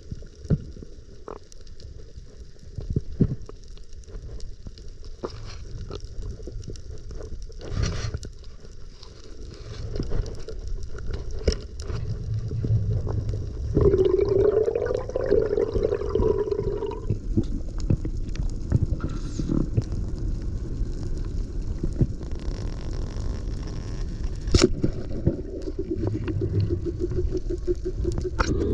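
Water noise on a spearfishing camera: a low churning rumble with many scattered clicks and crackles, and a wavering gurgle, like air bubbling through water, from about 14 to 17 seconds in.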